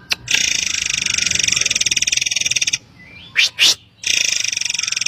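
Murai air song from a bird-lure recording: a long, rapid buzzing trill for about two and a half seconds, then two short sharp high notes, then the buzzing trill starting again.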